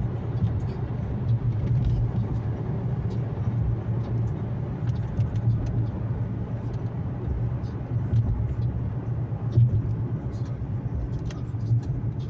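Infiniti Q70 cruising, heard from inside the cabin: a steady low drone of engine and road noise that holds level throughout, with faint scattered ticks above it.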